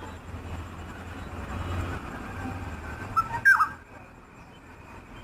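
Two short, loud bird calls about three seconds in, the second sliding down in pitch, over a steady low rumble.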